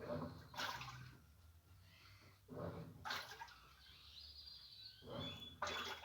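Water swishing in a washing machine tub in pairs of short surges that repeat every two to three seconds, over a faint low hum, as the machine agitates.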